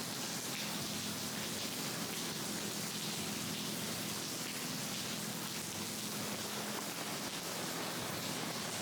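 Steady, even hiss of falling water, like rain, with a faint low hum beneath it.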